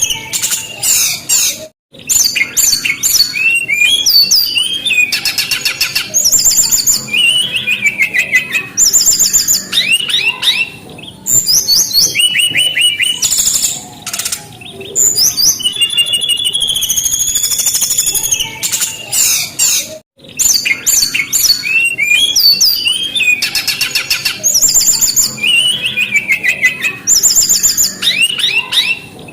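Brown-chested jungle flycatcher singing: a steady run of rapid, varied high whistled phrases and trills, with two very brief cut-outs in the sound.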